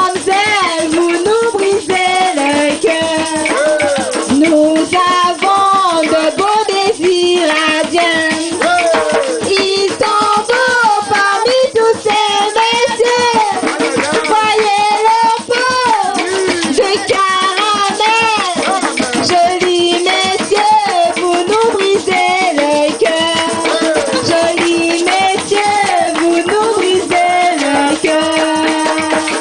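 Voices singing a traditional Creole song, accompanied throughout by a steadily shaken rattle.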